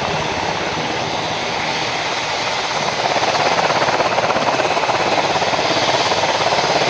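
Helicopter running, its rotor blades beating in a fast, steady chop, growing louder about three seconds in.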